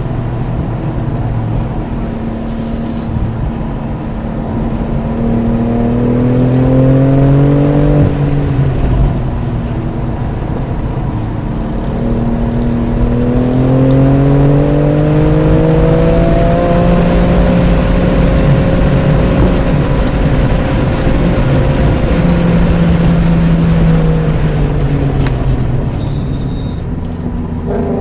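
BMW F80 M3 Competition's twin-turbo inline-six under hard acceleration on track. The engine note climbs for several seconds and drops sharply about eight seconds in. It then climbs again, holds roughly steady for a few seconds, and falls away near the end.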